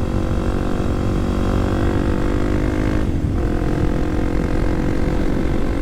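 Kawasaki KLX300SM's single-cylinder engine running steadily while riding, with a brief dip in engine pitch about three seconds in before it picks up again.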